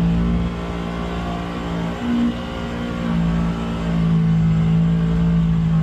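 Polaris Xpedition UTV engine pulling under load up a steep climb, a steady drone with a brief shift in pitch about two seconds in.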